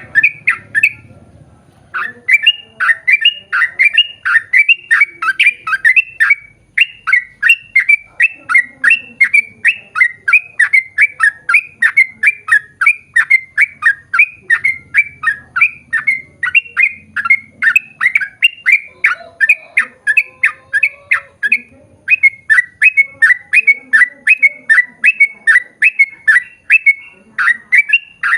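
Yellow-vented bulbul (trucukan) singing a long, fast chattering run of loud, sharp, bubbling notes, about three to four a second, with a short pause about a second in.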